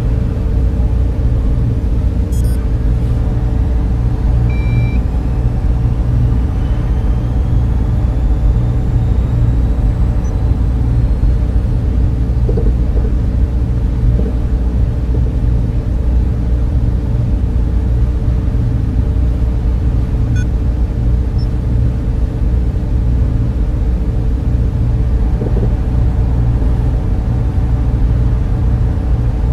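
Server room cooling fans running in a steady, loud low drone with several constant hum tones, and a short faint high beep about five seconds in.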